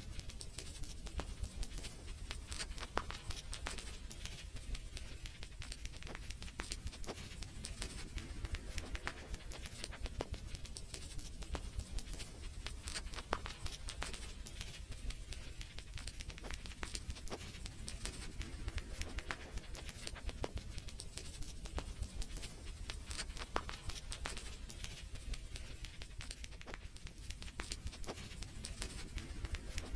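Wood fire crackling in a fireplace: a dense, irregular stream of small sharp pops and snaps over a low steady rumble.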